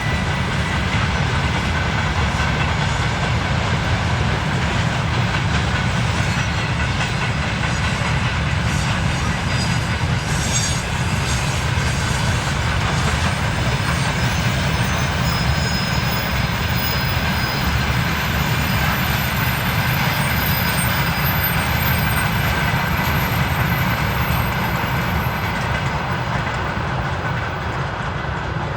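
Russian freight train wagons rolling past steadily, the wheels clattering over the rail joints. A faint high wheel squeal sounds through the second half.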